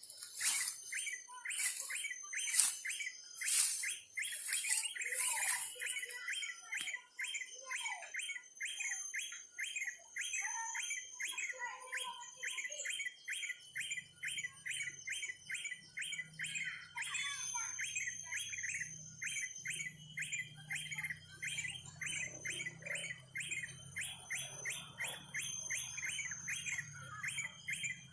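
Small songbird chirps repeated rapidly and very evenly, about three a second, with a faint steady high-pitched whine behind them.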